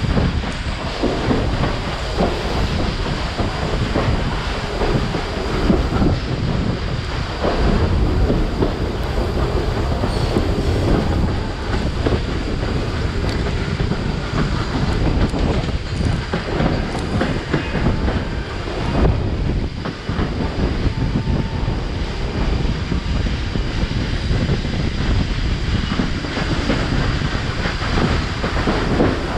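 Railcar of a steam-hauled passenger train rolling at speed: a steady rumble with wheels clattering over the rail joints in irregular knocks.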